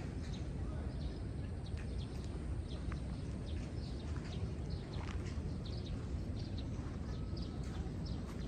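Footsteps of a person walking at an even pace on a hard path, short crisp steps over a steady low rumble.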